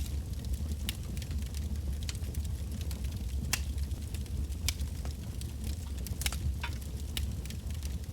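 Wood bonfire burning with a steady low rumble and frequent irregular sharp crackles and pops of the burning logs.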